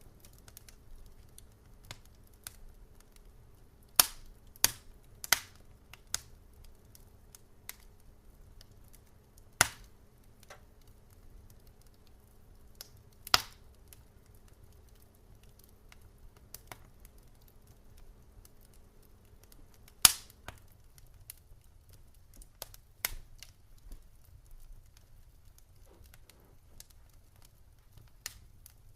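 Wood fire crackling in a fireplace: irregular sharp pops and snaps, a few much louder than the rest, over a quiet low hiss.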